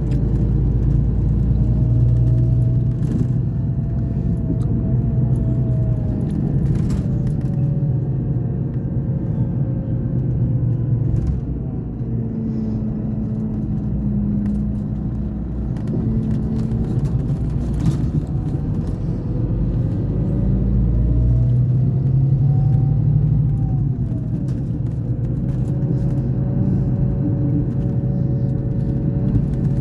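Scania K420 coach engine running on the move, a steady low rumble whose pitch slowly rises and falls as the engine pulls and eases off, with a few faint clicks.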